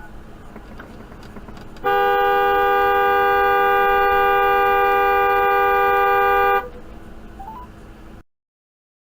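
Car horn held in one long, steady blast of nearly five seconds, starting about two seconds in and cutting off sharply. Light road noise comes before and after, and the sound drops out to silence near the end.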